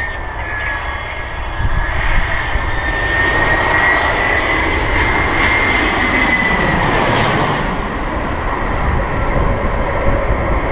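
Aircraft engines on landing approach passing the runway threshold: a wavering high whine over a roar that builds to a peak about six to seven seconds in, then falls away, with a steady low rumble underneath.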